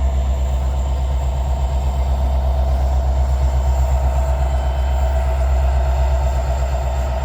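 Freight train cars rolling past close by: a loud, steady low rumble with a regular, rapid beat of wheels on the rails.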